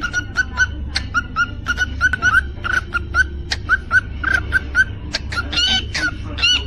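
Cockatiel chirping and whistling in a quick series of short, repeated notes, several a second, with a few sharp clicks mixed in. A steady low hum runs underneath.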